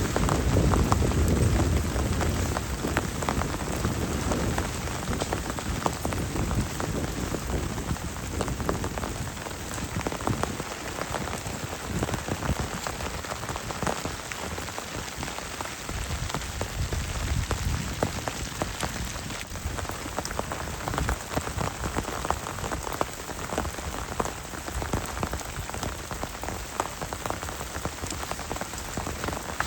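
Heavy rain falling: a dense, steady patter of drops hitting a surface close by. A low rumble of thunder dies away in the first few seconds.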